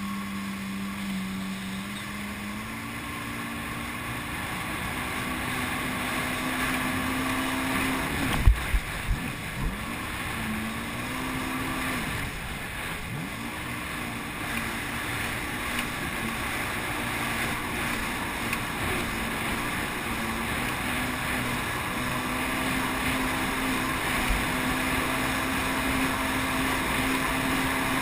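Jet ski engine running under way, its pitch climbing over the first few seconds and then holding steady. About eight seconds in come a few sharp thumps, and the engine pitch dips briefly and comes back.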